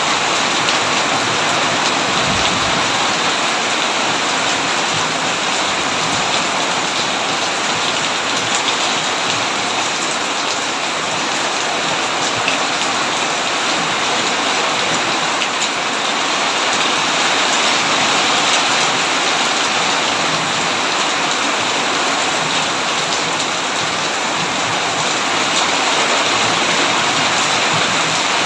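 Heavy rain pouring steadily, a dense, even hiss of drops without a break.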